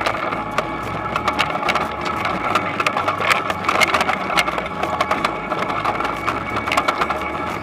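Toyonoki potato harvesting machine running: a steady engine hum under a constant dense rattle and clatter of many small clicks.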